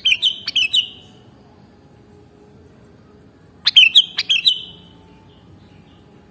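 Sooty-headed bulbul (kutilang) song: two short phrases of a few quick, clear notes, one at the very start and another about three and a half seconds later.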